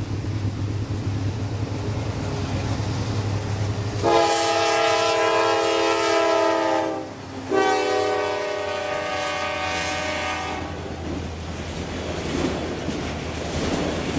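Norfolk Southern diesel freight locomotives approaching with a low engine rumble, then sounding the air horn in two long blasts about four seconds in, the second slightly lower in pitch as the locomotives pass. After that, auto rack cars roll by with wheels clattering over the rail joints.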